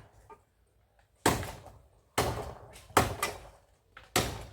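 Four heavy chopping blows, about a second apart, each sharp at first and dying away quickly: a machete cutting into wood.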